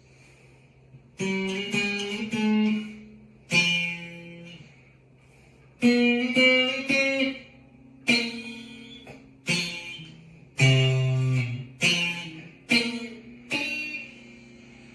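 Donner 30-inch ST-style mini electric guitar played through its small practice amp: about nine separately plucked notes and short chords, each ringing out and fading, with a steady low hum underneath.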